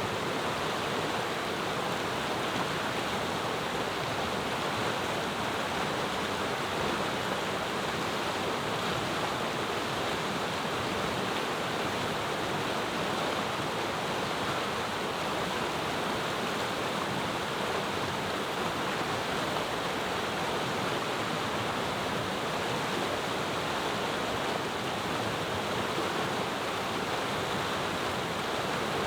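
Mountain river running, a steady, even rush of water with no breaks.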